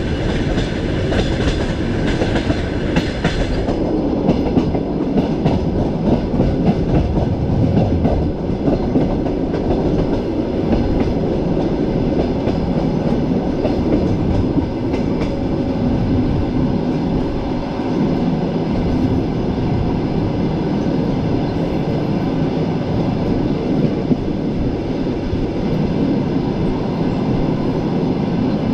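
Passenger train coach rolling along the line, a steady rumble of wheels on rails with irregular clickety-clack. A higher hissing layer during the first four seconds cuts off abruptly.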